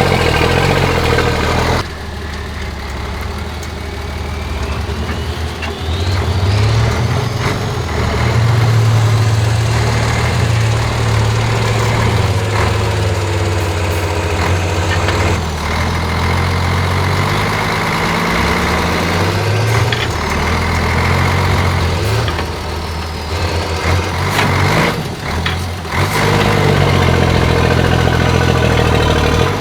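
Diesel engine of a 4x4 Liaz off-road trial truck working under load, its note rising and falling repeatedly as the driver throttles up and eases off.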